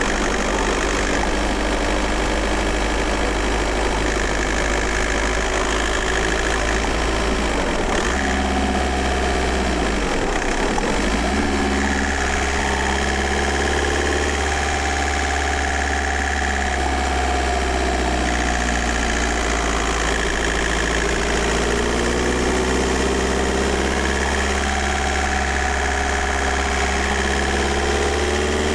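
Volkswagen Golf Mk4 4motion's 1.9 TDI four-cylinder turbodiesel running, heard from inside the car. Its pitch rises and falls slowly with engine speed, with a change of note about eight to eleven seconds in.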